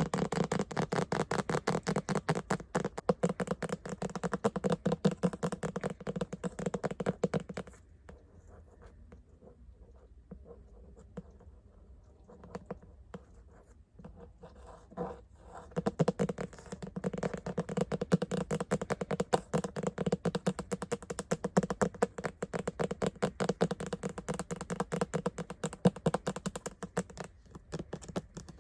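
Fast tapping and scratching with the fingers, a rapid stream of small clicks and scrapes. It comes in two long runs with a pause of several seconds between them, from about 8 s in to about 15 s in, where only a few scattered taps are heard.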